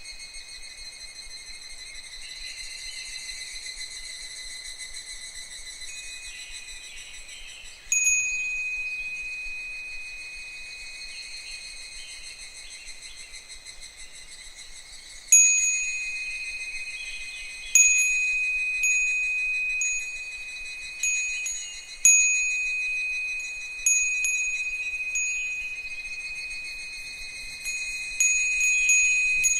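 Japanese wind chime (fūrin) ringing in the breeze: one strike about a quarter of the way through, then strikes every second or two through the second half, each ringing on in the same clear, high tones. Higurashi (evening cicadas) call faintly underneath.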